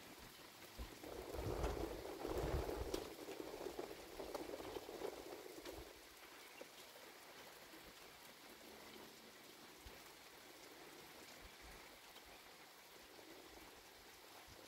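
Steady rain falling, with a louder swell of sound from about a second in that dies away by about six seconds.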